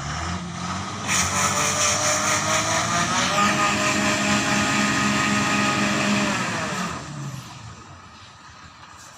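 Truck engine revving hard under load for about six seconds, its pitch dipping once and then holding steady before it eases back down.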